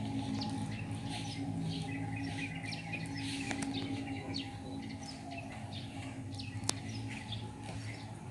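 Small birds chirping and tweeting, many short calls, over a low steady hum.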